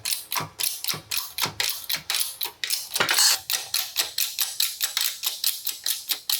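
A quick run of sharp taps on metal, about three or four a second, with one louder scraping burst about three seconds in.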